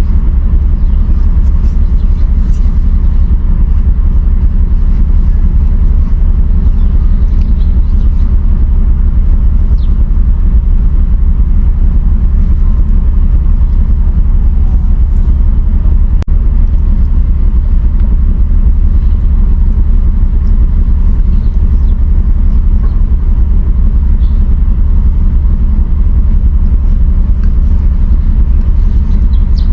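A loud, steady low rumble with no changes, and a few faint short squeaks and ticks above it.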